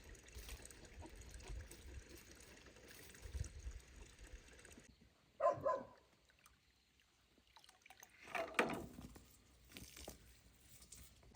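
Water trickling and pouring. Then, about halfway through, two short loud calls from the pigs in quick succession, and another call a few seconds later.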